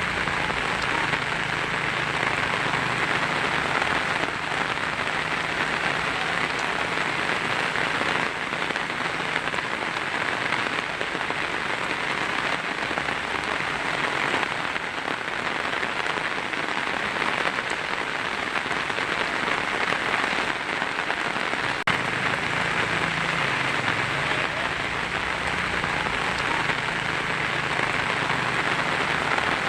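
Heavy rain pelting a tin roof, a steady dense patter with no let-up.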